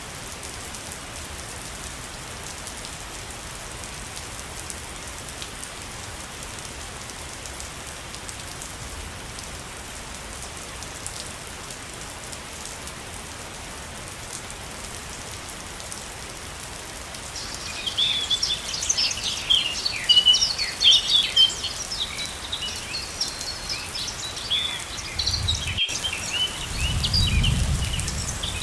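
Steady rushing water from a waterfall, an even hiss. About two-thirds of the way in, birds start chirping busily and loudly over it, and a low rumble swells near the end.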